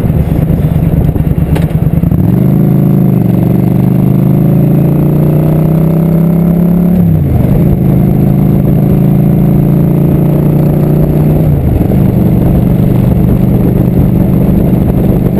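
Motorcycle engine heard from the saddle while riding, pulling up through the gears: the pitch climbs steadily, drops sharply at a shift about seven seconds in, climbs again and drops at a second shift near twelve seconds, with wind and road noise under it.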